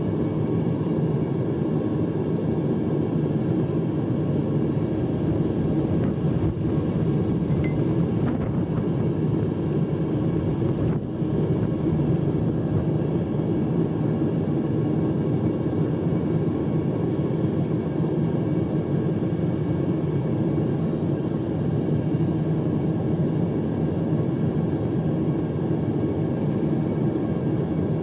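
Gas-fired metal-melting furnace burner running with a steady rumble, melting aluminium.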